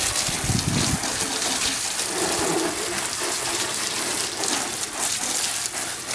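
Water sprayed from a hose nozzle in a fan pattern, rinsing degreaser off a car's engine bay: a steady hiss of spray.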